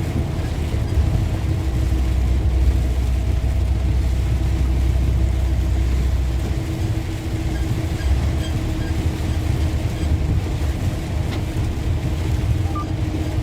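Tractor-trailer cruising at highway speed on a wet road, heard inside the cab: a steady low rumble of engine and tyres with a faint steady hum above it, the deep part swelling for a few seconds near the start.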